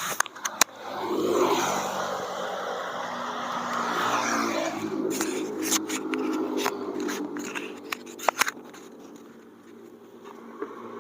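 Motorcycle engine running steadily while riding, with a louder rush of engine and wind near the start. Scattered sharp clicks and rattles come through in the middle of the stretch.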